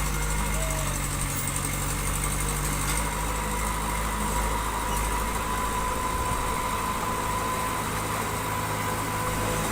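Diesel engine of heavy construction machinery running steadily at low revs, with a faint thin whine in the middle.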